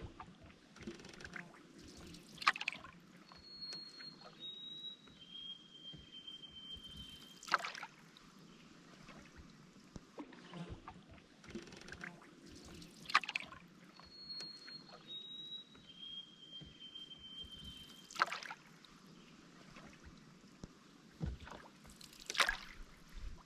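Canoe paddle strokes splashing about every five seconds over steady lapping river water. Twice, a songbird whistles three clear notes that each step lower in pitch, the last one held longest.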